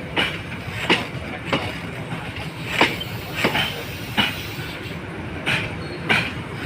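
Passenger train wheels clacking over rail joints as the train rolls slowly into the station: a sharp clack every half-second to second over a steady rumble.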